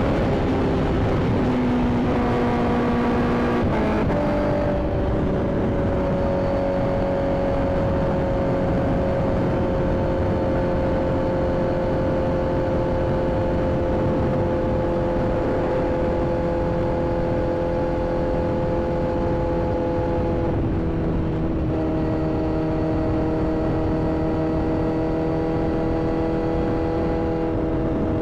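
Inline-four sport motorcycle engine running under way, with wind and road noise. The engine note steps up and down in the first few seconds, then holds nearly steady and sags slowly through a long cruise, before changing pitch again about 21 seconds in.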